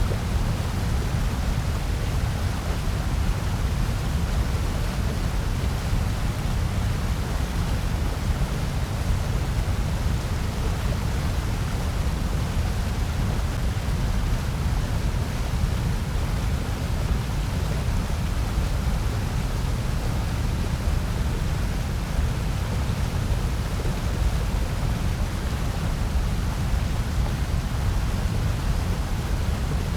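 Steady generated noise: a constant, unchanging rush with no rhythm or events, heaviest in the low end and thinner toward the top.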